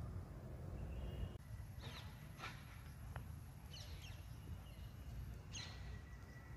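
Birds chirping outdoors: a handful of short downward-sweeping calls over a low rumble that drops away about a second and a half in.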